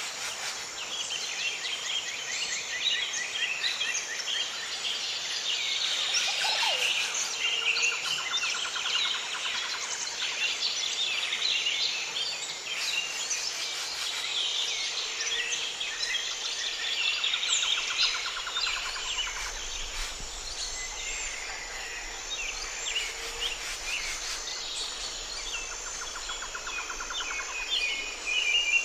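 A dense chorus of many small birds chirping and singing at once. A short, rapid trill recurs roughly every ten seconds, over a steady high pulsing in the background.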